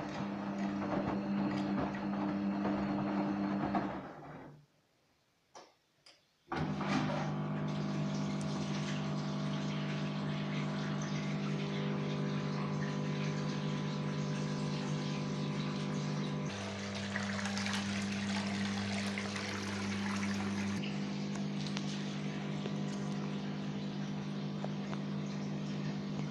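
Gorenje WA50060 washing machine running through a rinse, with water flowing against a steady mechanical hum. The sound cuts out about four seconds in, with a couple of faint clicks, then starts again about two seconds later and changes pitch twice further on.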